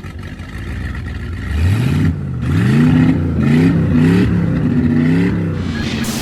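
Yamaha jet ski engine driving a Sealver Wave Boat, revving up and down again and again from about a second and a half in, over a steady hiss.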